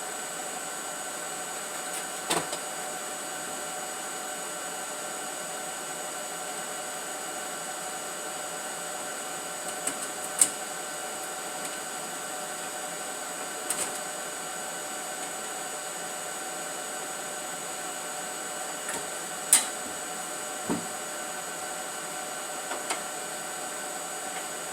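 Steady machine hum with a high whine running throughout, with about half a dozen sharp knocks and clicks from metal exhaust pipe pieces being worked together to fit. The loudest knocks come about ten seconds in and again a little before the end.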